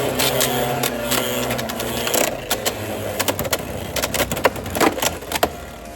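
Beyblade X spinning tops battling in a plastic stadium: a steady spinning hum that fades out about two seconds in, with many sharp clicks of the tops striking each other and the stadium wall throughout.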